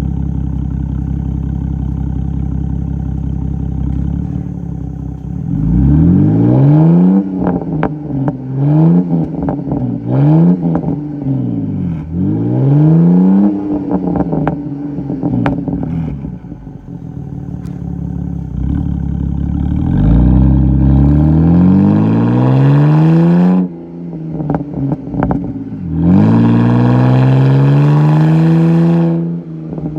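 2011 BMW 128i straight-six with its muffler and secondary catalytic converters deleted, idling steadily and then revved hard several times. The revs climb and fall back, with short sharp cracks from the open exhaust among them.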